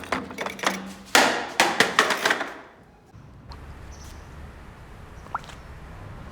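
A quick run of knocks and clattering, like things being handled and bumped together, for about two and a half seconds. It then drops to a faint low hum.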